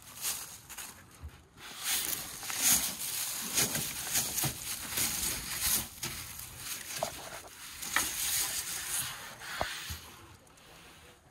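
Footsteps crunching and rustling through dry grass and brush, an uneven run of steps and swishes that fades away near the end.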